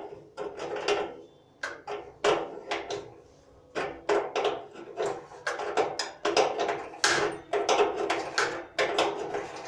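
Repeated sharp knocks, about two a second and unevenly spaced, like blows on a hard object during work on a gas water heater.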